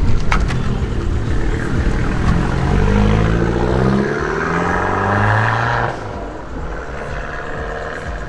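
Modified car accelerating hard, its engine note climbing steadily in pitch for several seconds before dropping off abruptly about six seconds in. A few sharp cracks sound right at the start.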